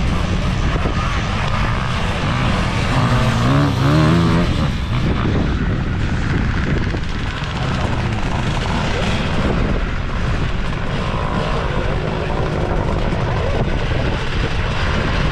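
Motorcycle engines revving on a dirt track, with one bike's engine pitch climbing and dropping about three to four seconds in.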